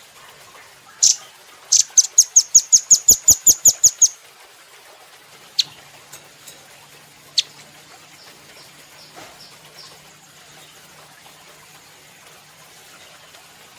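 Velvet-fronted nuthatch calling. A sharp high note, then a fast run of about a dozen clipped, high notes at roughly five or six a second, followed by a few single notes spaced apart.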